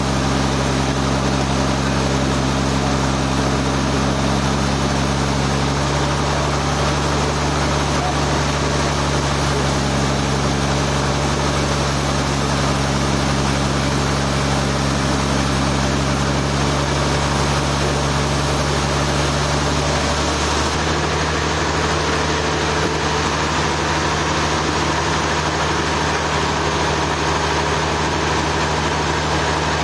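Sawmill engine running steadily with a low hum, the hum changing abruptly about twenty seconds in.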